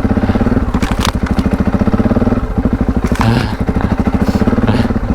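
Adventure motorcycle's parallel-twin engine running under throttle off-road, its revs easing off about halfway through and building again, with a couple of sharp knocks from the bike over rough ground.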